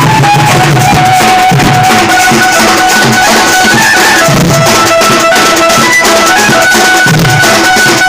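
Sambalpuri band party music: loud, busy drumming and shaken percussion under a melody of long held notes that steps from one pitch to the next.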